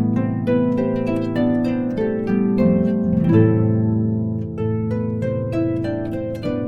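Instrumental harp music: many plucked notes, each ringing and fading, over held bass notes, playing an arrangement of a pop song.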